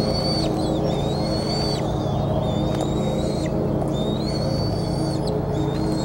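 A bird singing high, thin drawn-out notes that step up and down in pitch, repeating every second or two over a steady low hum.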